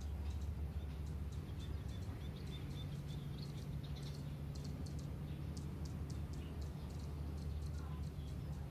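Outdoor ambience of small birds chirping in short, high-pitched notes over a steady low rumble.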